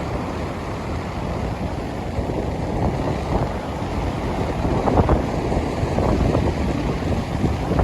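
Wind buffeting the microphone in gusts, with ocean surf rushing beneath.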